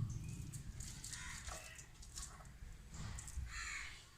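Crow cawing, a few separate harsh calls about a second in and again near the end.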